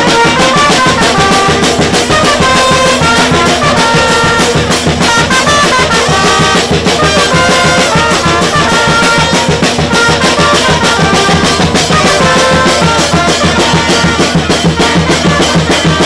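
Loud brass band music: trumpets and trombones playing a melody over a fast, steady drum beat.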